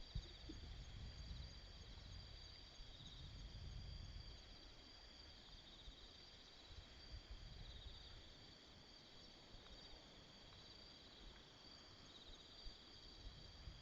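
Faint chorus of autumn insects chirping and trilling in steady high-pitched bands, several overlapping, with a low rumble underneath.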